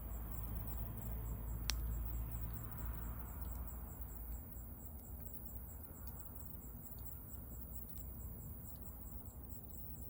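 Wood fire crackling with scattered pops and one sharp snap just under two seconds in, over a low rumble that fades after a few seconds. Insects chirp steadily in an even pulse of about three a second.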